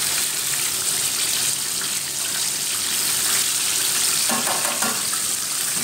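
Chicken pieces deep-frying in hot oil in a pan, a steady sizzle.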